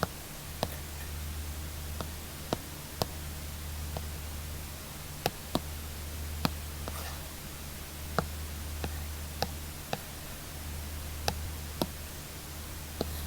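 Apple Pencil tip tapping on an iPad screen: a dozen or so sharp, irregular taps, with a short soft scratch of the tip about seven seconds in. A steady low hum runs underneath.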